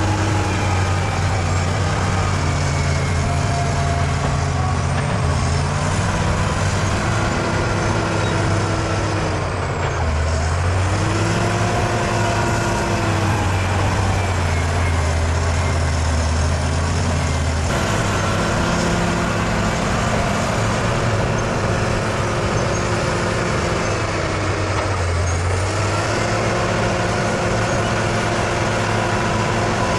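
Bulldozer's diesel engine running steadily under load, its pitch shifting as the machine works and changing abruptly several times.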